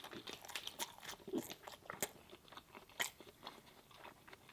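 A person chewing a mouthful of chicken Philly sandwich with mac and cheese close to the microphone: irregular soft crunches and mouth clicks, with a couple of louder crunches about two and three seconds in.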